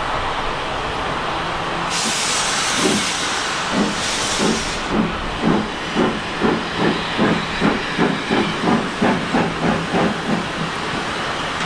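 Steam locomotive starting away: two short bursts of steam hiss, then chuffing exhaust beats that quicken to about three a second and fade near the end.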